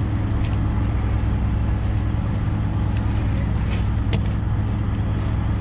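Heavy truck's diesel engine idling steadily, a deep, even hum. One sharp click about four seconds in.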